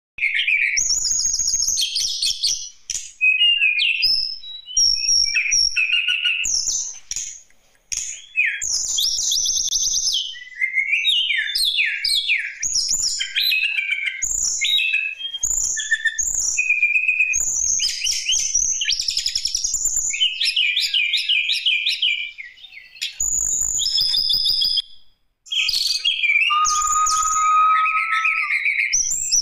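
Tledekan gunung singing a fast, varied song of chirps, trills and whistles in quick phrases, with short pauses between them and a long steady note near the end.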